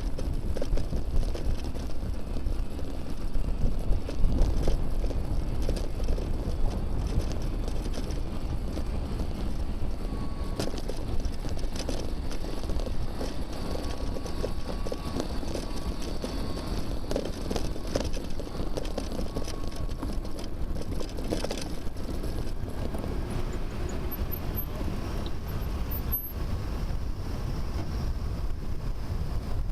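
Wind and road rumble on a bicycle-mounted camera while riding, a steady noisy rush with a few louder gusts in the first few seconds. A faint thin tone comes and goes in the middle.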